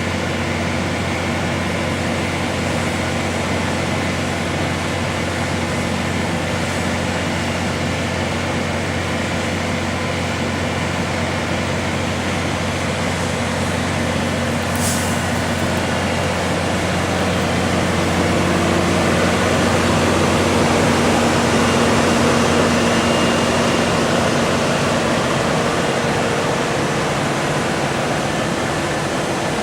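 Scania truck-mounted Junjin concrete pump running steadily: a heavy engine with a constant low drone, growing a little louder about two-thirds of the way through. A brief hiss about halfway through.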